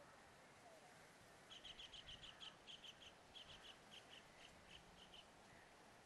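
A bird calling a quick run of short, high chirps, about six or seven a second at first, then slowing and fading out.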